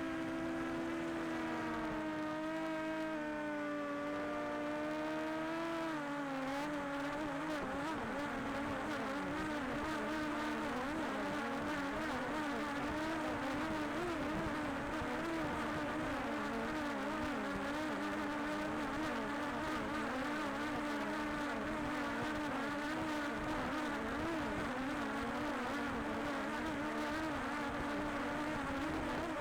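Quadcopter drone's propellers humming, the pitch gliding at first and then wavering up and down.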